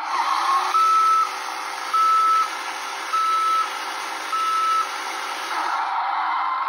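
Reversing alarm beeping four times, evenly spaced steady tones about a second apart, over a steady hiss of truck-engine noise, from a toy monster truck's sound effects.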